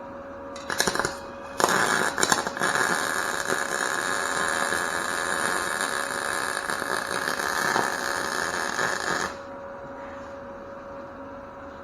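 MIG (wire-feed) welder with shielding gas striking a short arc, then running a bead of about seven seconds with a steady crackle before cutting off sharply a little after nine seconds in.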